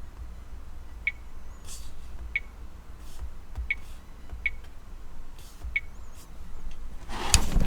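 Five short, sharp high clicks or beeps about a second apart as buttons on the Lamtto portable Android Auto screen are pressed while looking for a setting to flip the camera image. Soft handling rustles come in between, and a louder rustle near the end.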